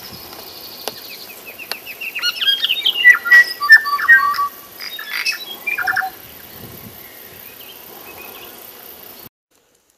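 A songbird singing: a run of quick chirps and whistled, gliding notes, busiest and loudest between about two and six seconds in, over a faint steady background hiss. The sound cuts off suddenly near the end.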